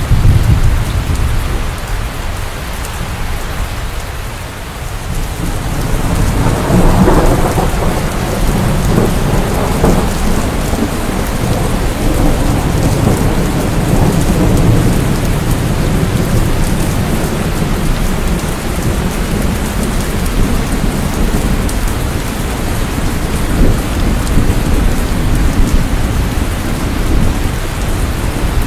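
Steady heavy rain with rolling thunder, a low rumble that swells about six seconds in and carries on under the rain.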